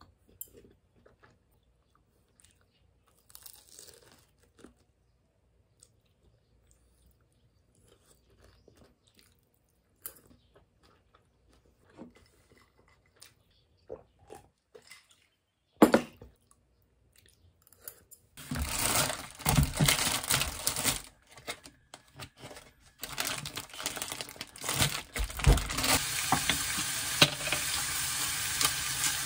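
Faint chewing and crunching of food, with one sharp knock. About two-thirds of the way through, pork belly slices start sizzling loudly in a hot frying pan, uneven at first, then settling into a steady sizzle.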